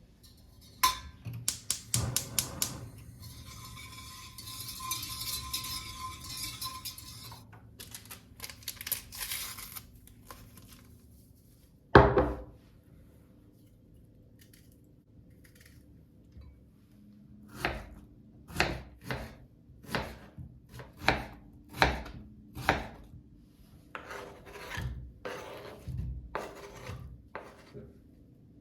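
Kitchen work sounds: dishes and utensils clatter and knock, with a steady hiss for a few seconds early on and one loud knock about halfway. In the second half comes a run of knocks about one a second, like a knife on a cutting board.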